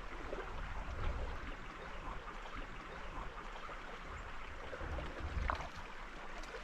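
Steady rush of moving stream water, with a low rumble that comes and goes underneath.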